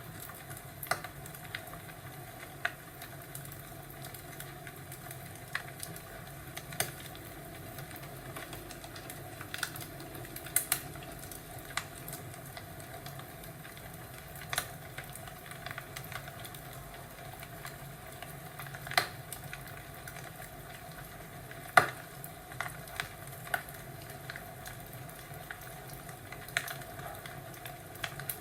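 Fireplace crackling: scattered sharp pops at irregular intervals, one louder pop a little past the middle, over a steady low hiss.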